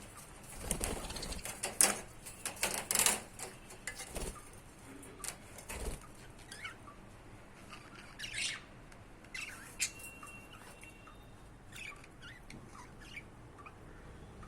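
Budgies moving about: a flurry of wing fluttering and rustling in the first few seconds, then scattered short chirps.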